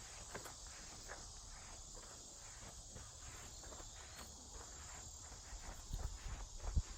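Steady insect chorus droning in the woods, with footsteps on the forest floor coming in from about five seconds in and growing louder near the end.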